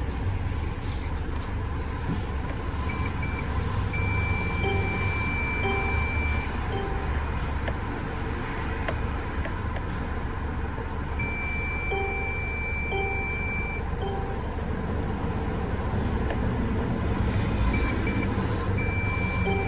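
Mercedes Sprinter's four-cylinder diesel engine idling steadily. Over it sound electronic beeps from the van: short beeps between three held high tones, each held tone about two and a half seconds long.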